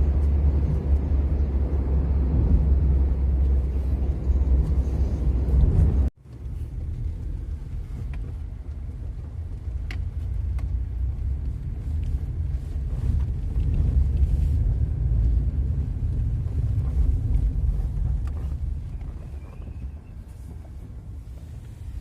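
Steady low vehicle rumble that cuts off abruptly about six seconds in, then continues as a quieter low rumble with a few faint clicks.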